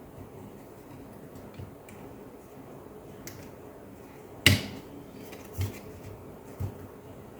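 Small clicks and knocks of plastic laptop parts being handled and fitted together, with one sharp knock about halfway through and two softer thumps after it.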